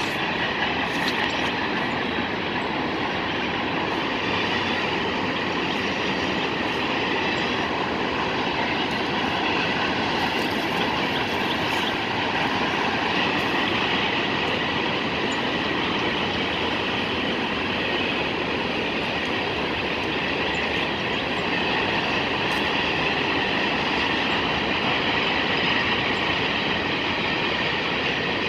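Railroad cars rolling past on the track, a steady continuous rumble with a high ringing tone above it.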